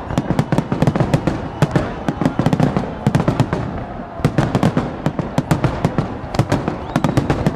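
Fireworks barrage: many aerial shells bursting together, with dense rapid crackling over low thuds, easing briefly about four seconds in.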